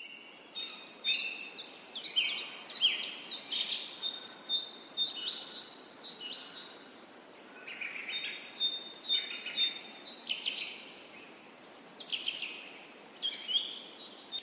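Songbirds chirping and singing, several at once: quick downward-sweeping chirps and some short held high notes in dense clusters, with a few brief quieter spells.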